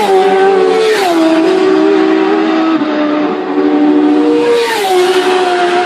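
Racing motorcycles passing at high speed on a road course, their engine note dropping sharply in pitch as each one goes by: three passes, about a second in and again near the end.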